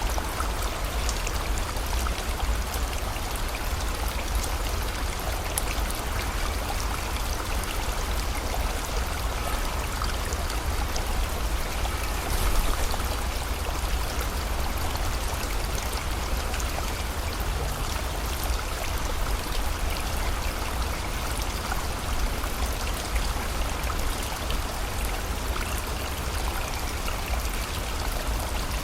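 Flowing river with rain falling: a steady, unbroken wash of rushing water with scattered light drop ticks over a deep low rumble.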